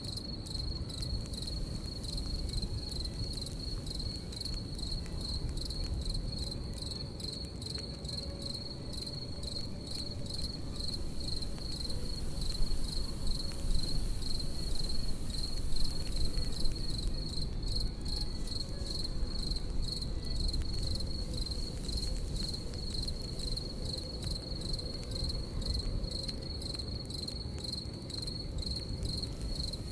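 Crickets chirping steadily in a continuous high, pulsing trill, over a campfire's crackle of many small pops and a low rumble, with a few louder pops in the middle.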